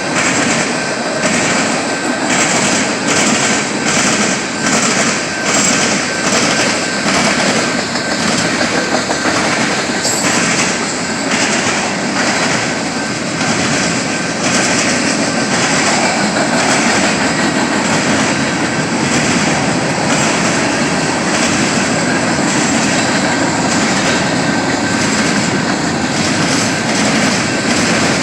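A train rolling past close by, with a loud steady rumble of wheels on rail. Its wheels click over the rail joints at a regular beat that evens out about halfway through, with a thin steady high squeal over it.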